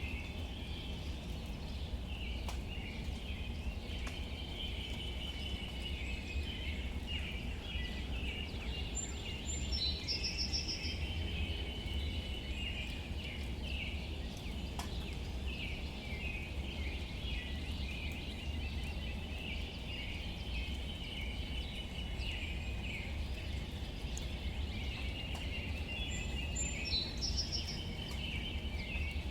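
Gentle rain falling on leaves, with birds chirping steadily behind it and a low rumble underneath. A short high bird call comes about ten seconds in and again near the end.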